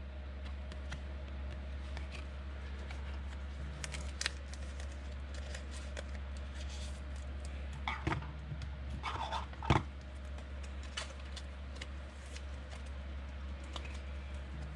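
Trading cards being handled and flipped through, with scattered small clicks and slides, over a steady low hum.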